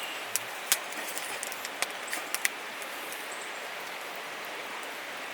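Steady rush of a flowing river, with a few short sharp clicks in the first half.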